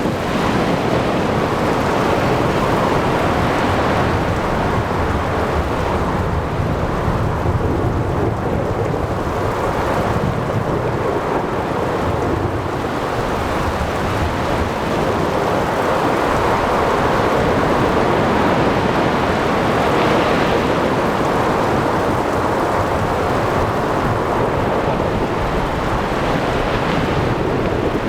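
Ocean thunderstorm: a steady wash of rain, wind and breaking waves with low thunder rumbling, swelling and easing every few seconds.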